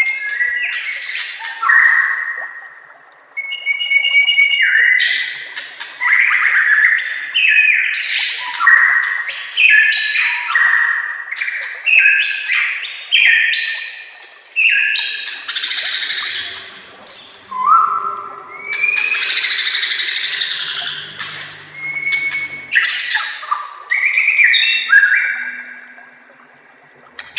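White-rumped shama (murai batu) singing a long, loud run of varied phrases: clear held whistles, gliding notes and fast chattering strings, with brief pauses between phrases.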